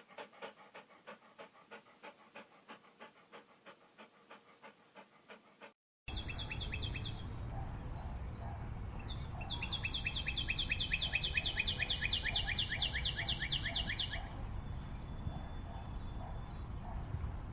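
A rhythmic run of short, breathy pulses, about three a second, stops about six seconds in. Then a songbird sings rapid high trills over a steady low background rumble, the longest lasting about four seconds.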